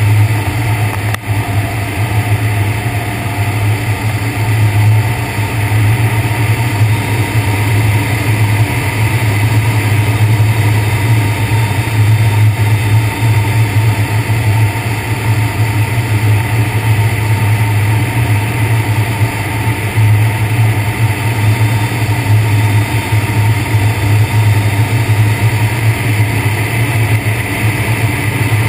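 Steady low drone and rushing noise of an ultralight trike in flight, unchanging throughout.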